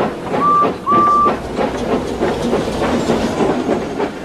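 Two short toots of a small steam engine's whistle, each with a slight upward swoop at its start, close together about half a second in. They sound over the steady puffing of the engine, several chuffs a second.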